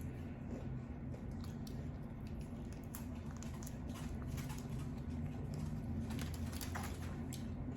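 Close-miked chewing of lo mein noodles, with frequent short, wet mouth clicks over a steady low background hum.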